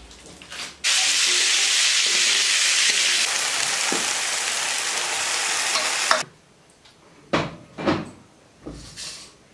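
Food frying in hot oil in a pan, a loud even sizzle that starts and cuts off abruptly, followed by a few short clattering noises near the end.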